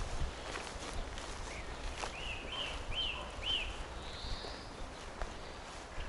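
Footsteps on a forest path, with a bird singing a quick series of four arched chirping notes about two seconds in.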